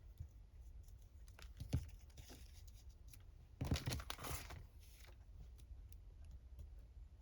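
Paper being handled and rustled, with light taps and one short, louder rustle about four seconds in.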